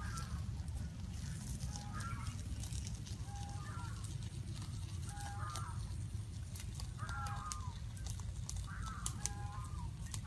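A bird calling over and over, the same short phrase about every one and a half to two seconds, over a steady low rumble and scattered sharp crackles.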